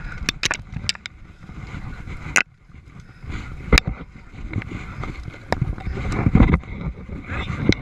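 Scuffing, rustling and a string of sharp knocks as a Yamaha TTR 230 dirt bike is hauled by hand up a steep, brushy bank, over a low, uneven rumble of handling noise.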